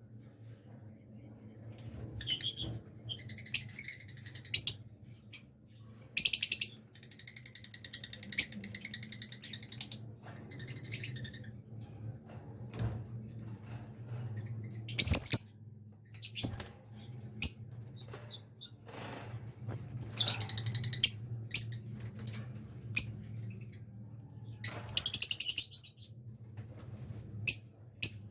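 Blue lovebirds chirping and chattering in high-pitched bursts, one of them a rapid run of calls, with scattered sharp clicks and knocks over a low steady hum.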